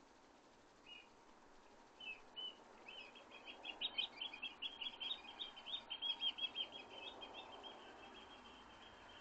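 A small songbird singing: a few short chirps, then a fast run of high notes lasting about five seconds that fades out near the end.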